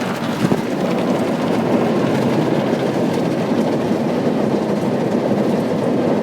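Ryko Softglass MAXX rollover car wash working over the car, heard from inside the cabin: a loud, steady rushing noise of water and wash machinery on the body, with a couple of short knocks about half a second in.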